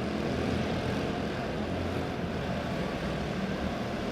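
Quarter midget race car engines running steadily as the field laps the track, a continuous even buzz with no change in pitch.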